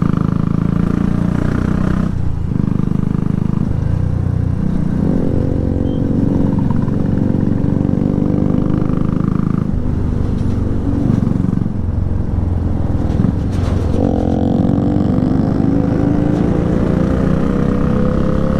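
Motorcycle engine running under way over a heavy low rumble, its pitch climbing as it accelerates about five seconds in and again steadily over the last few seconds.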